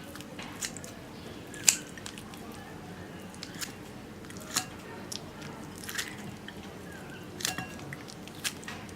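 Kitchen scissors snipping through raw chicken leg meat to free the bone: about seven sharp snips spaced a second or so apart, the loudest under two seconds in, with soft wet squishing of the meat between them.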